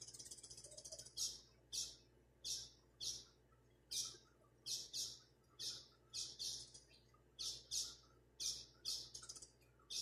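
A small bird chirping: a fast chatter in the first second, then sharp, high single chirps repeated about twice a second at an uneven pace.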